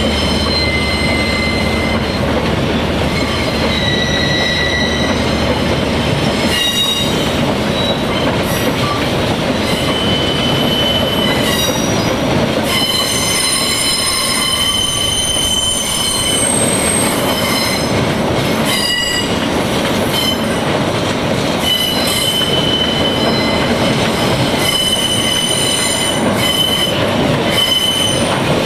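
A train rolling steadily past close by, its wheels squealing on the rails in high, wavering tones that come and go, with a few sharp knocks from the wheels.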